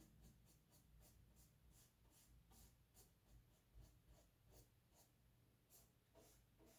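Faint, quick scratching of a paintbrush stroking paint onto canvas, about three strokes a second.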